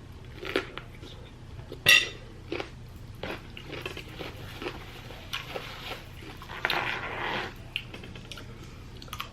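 Eating utensil clinking and scraping against a plate in scattered short taps, with one sharp ringing clink about two seconds in and a longer scrape around seven seconds in.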